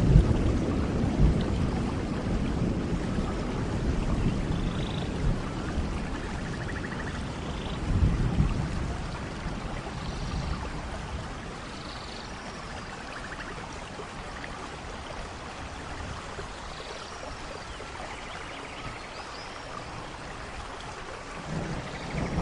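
Steady tropical rain with rolling thunder that rumbles at the start, swells again about eight seconds in, dies away and builds once more near the end. Short bird calls come through the rain here and there.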